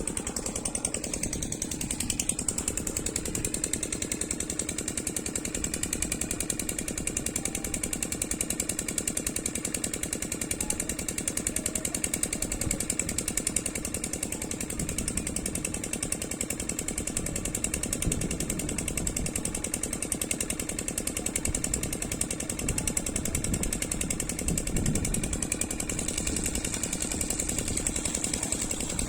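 Oil (diesel) engine driving an air compressor, running steadily with a fast, even beat.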